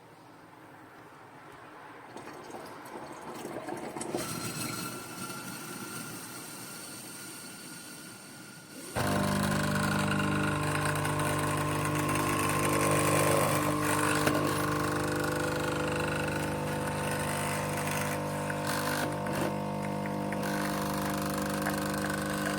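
KOTLIE AC-513HF capsule coffee machine brewing: a rising hiss, then about nine seconds in its pump starts with a sudden, loud, steady buzz that keeps on.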